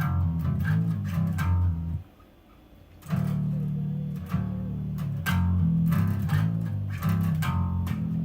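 Bass guitar playing a phrase of low notes, with pull-offs between frets. It stops for about a second, about two seconds in, then the line goes on.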